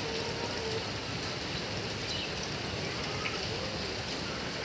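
Heavy rain falling steadily on grass and palm leaves, an even, unbroken hiss of rain.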